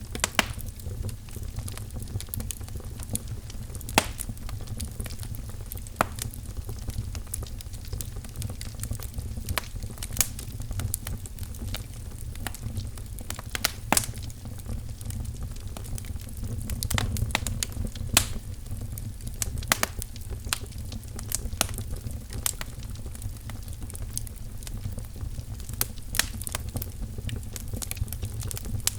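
Wood fire crackling in a fireplace: irregular sharp pops and snaps, a few louder than the rest, over a steady low rumble of the burning logs.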